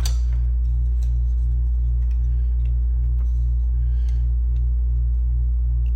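Steady low electrical-sounding hum with a regular faint pulsing, and a few light clicks of small computer parts being handled and fitted.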